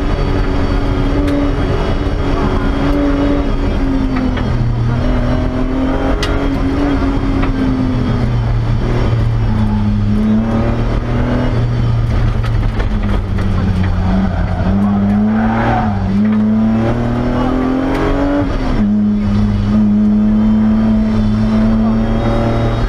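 BMW E30 rally car's engine heard from inside the cabin at stage pace, its revs climbing and dropping sharply again and again with gear changes and lifts.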